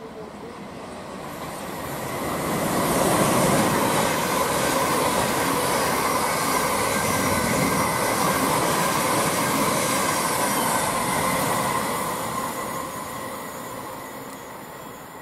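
Thameslink Class 700 Desiro City electric multiple unit passing at speed alongside the platform. Its rumble of wheels on rail builds over the first few seconds, holds with a faint steady whine, then fades away near the end.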